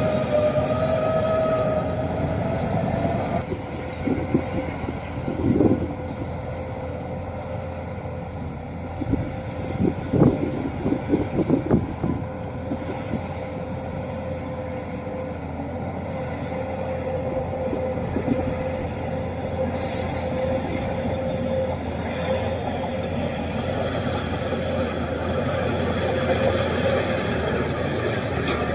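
Crawler bulldozer's diesel engine running with a steady whine, its steel tracks clanking and squealing in bursts about five seconds in and again around ten to twelve seconds in.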